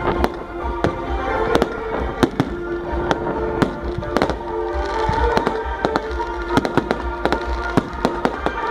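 Firecrackers going off in rapid, irregular sharp bangs, several a second, over music with long held notes.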